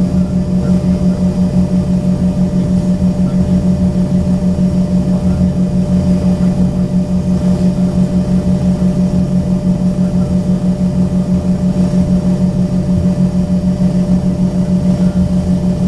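Embraer ERJ-135's rear-mounted Rolls-Royce AE 3007 turbofans idling, heard from inside the cabin while the jet holds short for departure: a steady low drone that pulses evenly about four times a second.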